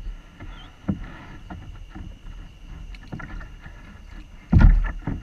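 Knocks and bumps against a kayak hull as gear or the paddle is handled, with one louder, deeper thump about four and a half seconds in.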